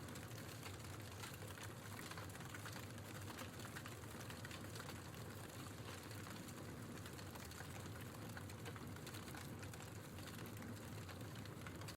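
Logs burning in a fireplace, crackling steadily with many small, irregular pops and snaps over a soft low rush of the flames.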